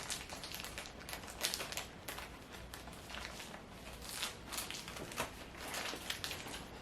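Faint crinkling with scattered light ticks and taps as a plastic zip-top bag is handled and seeds folded in a napkin are put into it.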